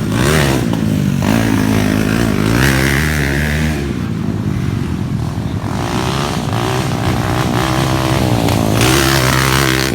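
Motocross dirt bike engines revving, the pitch rising and falling again and again as the throttle opens and closes.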